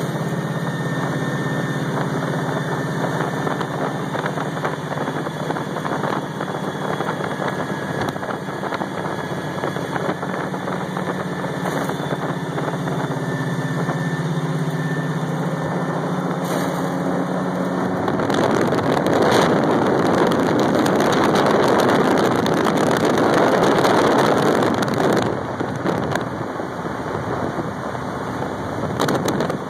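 Supercharged 502 big-block Chevy V8 in a 1940 Willys pro street coupe running at a lumpy idle as it rolls slowly, with the blower audible. About eighteen seconds in the engine grows louder and rougher for several seconds, then eases off again.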